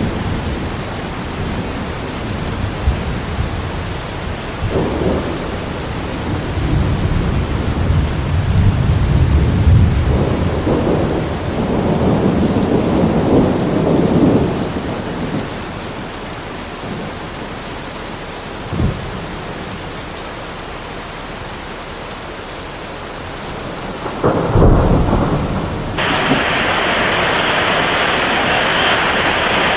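Steady rain with thunder rumbling through the middle and a sharp clap of thunder near the end. In the last few seconds the rain changes suddenly to a louder, hissier downpour.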